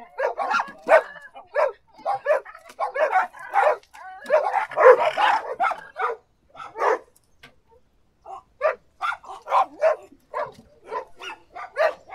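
A dog barking in a long run of short barks, densest about halfway through, then a pause of about a second before the barking picks up again.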